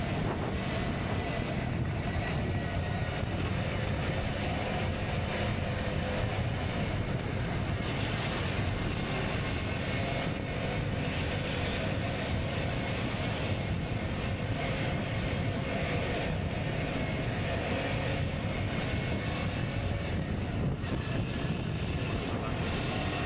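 KTM Duke 125's single-cylinder engine running through an Akrapovic exhaust at a fairly steady engine speed while riding, with wind rushing over the microphone.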